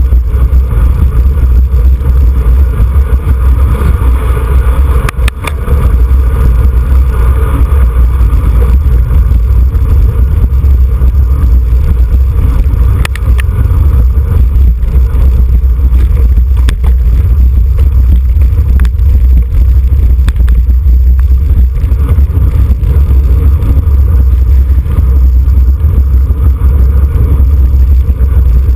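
Heavy wind buffeting on a bicycle-mounted camera's microphone while riding at race speed: a steady, very loud low rumble with a few brief clicks.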